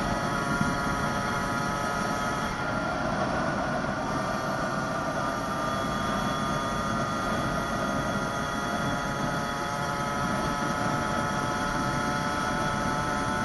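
66cc two-stroke motorized-bicycle engine running steadily at an even pitch, over a rushing noise of wind on the microphone.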